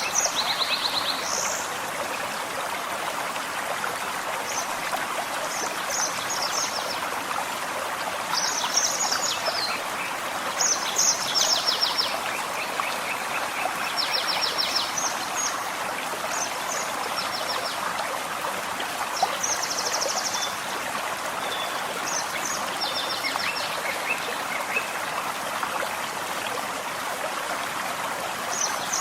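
A gentle forest stream babbling steadily, with small birds singing short, high trilled phrases every second or two over it.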